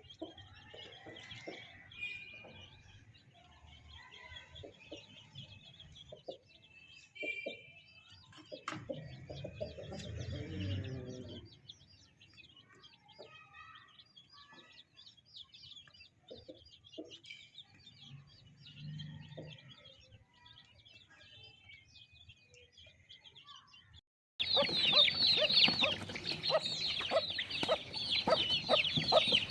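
Many caged birds chirping and chattering: faint, scattered calls for most of the time, then an abrupt cut about 24 seconds in to much louder, dense chirping from a crowd of birds close by.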